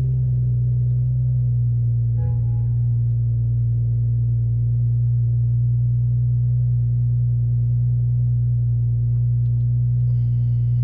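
BMW M340i's 3.0-litre turbocharged straight-six idling steadily just after starting. A brief electronic chime sounds about two seconds in.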